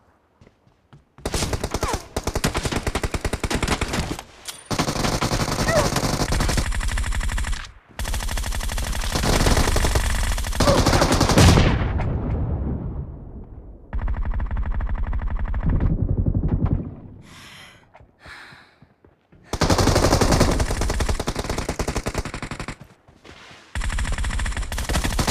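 Video-game automatic gunfire in long rapid bursts of about one to four seconds each, broken by short pauses, with six bursts in all.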